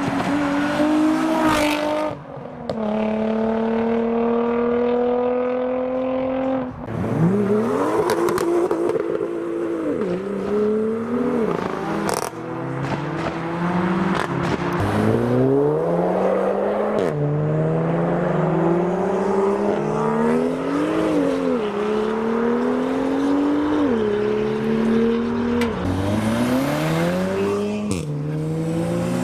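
Modified car engines pulling away, each note climbing in pitch and then dropping sharply at a gear change, over and over, with one sharp crack about twelve seconds in.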